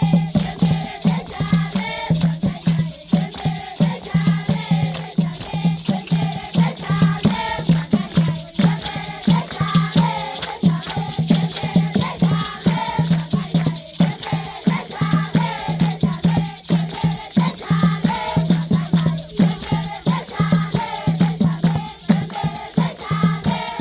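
A group of children singing a traditional Zimbabwean rain-dance song together, over shaken rattles and dense, evenly repeated percussive strikes. A steady low hum sits under it all.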